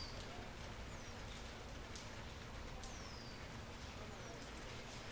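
Steady rain falling on the leaves of an almond tree, with sharp drop ticks through the hiss. A bird gives a few high calls that glide quickly downward.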